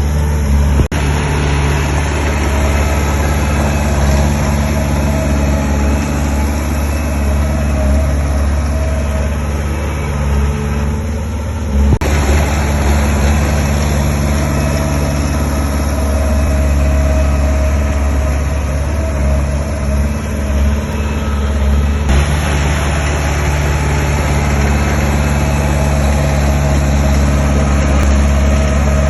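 Heavy diesel engine of construction machinery running steadily at a low, even engine note. The sound changes abruptly about twelve and again about twenty-two seconds in.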